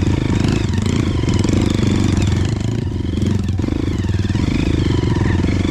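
A 230 cc trail bike engine pulling steadily at low revs on an uphill climb, its firing pulses even throughout. It lugs up the slope on its low-end torque without needing to be revved hard.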